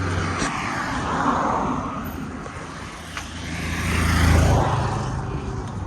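Two motor vehicles passing close by on a road, one after the other: the first fades away in the first second or so, the second builds up, passes about four seconds in, and fades.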